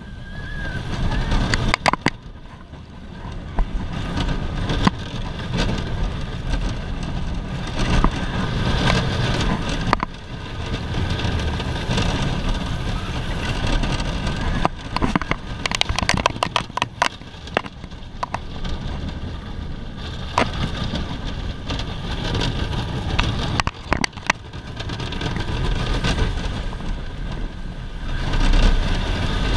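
Alpine coaster sled running down its steel rail: a continuous rumble and rattle from the wheels, with frequent sharp clacks and knocks and a steady faint whine.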